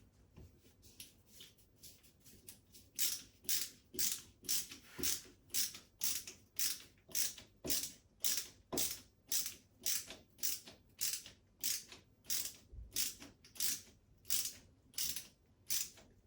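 A screw being turned by hand with a screwdriver into a wall plug, one sharp rasping click with each turn, about two a second. The strokes start faint and grow loud and regular about three seconds in; the screw is hard to drive by hand.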